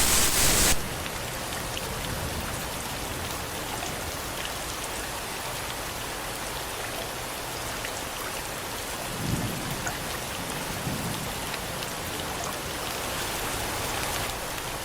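Steady rain falling, with brief low rumbles about nine and eleven seconds in.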